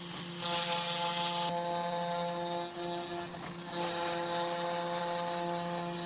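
Electric woodworking power tool running steadily, a constant motor hum with a hiss of cutting over it, briefly dipping twice.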